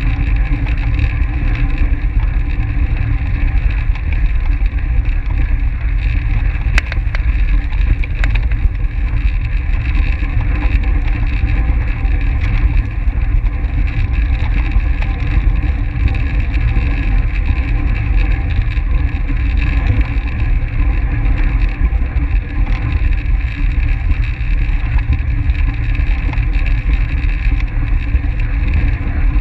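Steady rumble and rush of wind over a camera's microphone riding on a track bike at racing speed, with a faint click about seven seconds in.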